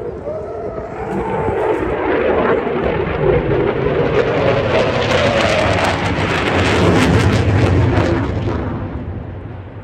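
Eurofighter Typhoon's twin EJ200 jet engines as the jet flies by: a loud jet roar that builds to a crackling peak about five to eight seconds in, then fades.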